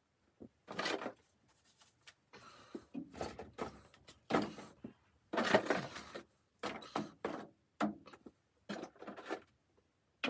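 Irregular short knocks, scrapes and rustles, some in quick clusters, the loudest a little past the middle.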